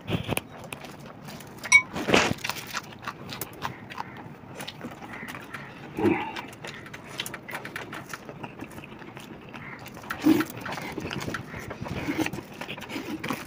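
Close-miked eating sounds: two people chewing mouthfuls of biryani rice eaten by hand, with many small wet mouth clicks and lip smacks. It gets louder briefly about two seconds in and again near ten seconds.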